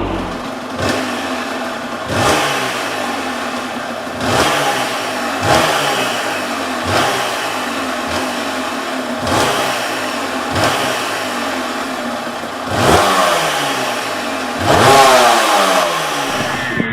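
Aprilia Tuareg 250 motorcycle engine revved in short throttle blips about every second or so, each rising and falling back to idle. Two longer, louder revs come near the end.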